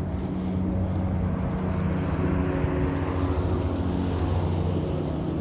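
Steady low mechanical hum, with a broad rushing noise that swells in the middle and then eases off.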